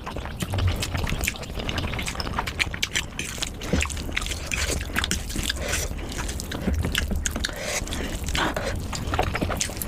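Close-miked eating sounds: a person chewing, with many quick, irregular wet mouth clicks over a low rumble.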